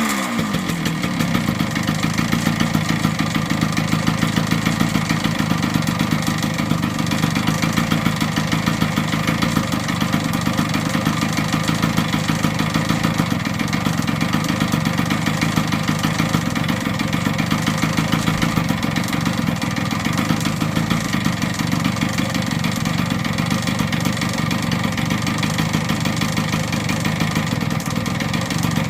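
1978 Yamaha DT100's air-cooled single-cylinder two-stroke engine settling from a rev right at the start, then idling steadily.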